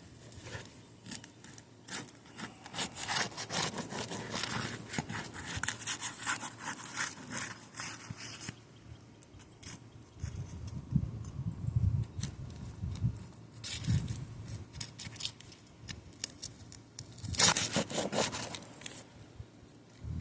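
Roof shingle being worked loose, its adhesive seal strip breaking: dense scraping and tearing for about the first eight seconds, then a quieter stretch with a few low thuds, and another short burst of scraping near the end.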